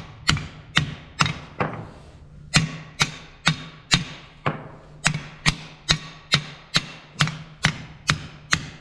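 A hammer striking a red-hot track-chain pin to drive it out of the paver's track chain. The blows come about two a second, each ringing briefly, with a short pause about two seconds in.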